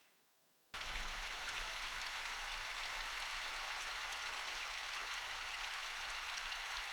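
Steady forest rain falling, an even hiss that cuts in abruptly under a second in after a brief moment of near silence.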